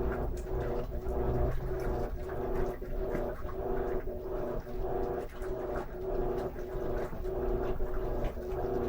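Electrolux LM13Q top-load washer agitating a jeans load. Its motor hums in short, even strokes, a little over one a second, as the agitator swings back and forth.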